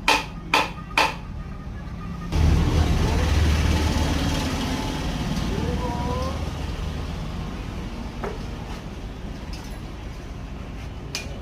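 Three sharp hammer blows on metal, then a road vehicle's engine running close by, starting suddenly and slowly fading away.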